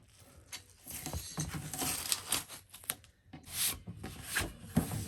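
Masking and cardboard being torn and scraped off a snowboard, a run of short irregular ripping and rubbing sounds; the glue seeped through and stuck them to the board.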